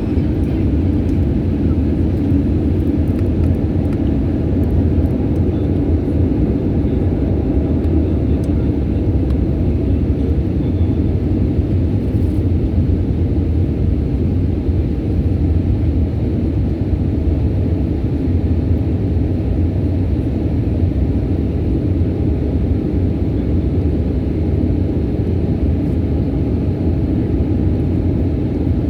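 Jet airliner's steady low rumble of engine and rushing-air noise, even in level with no sudden events.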